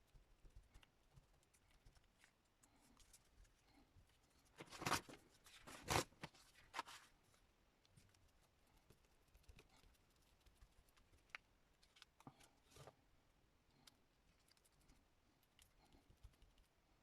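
Paper craft work: faint scattered taps and clicks of paper and scraps being handled, with a brief cluster of louder paper rustling about five to seven seconds in.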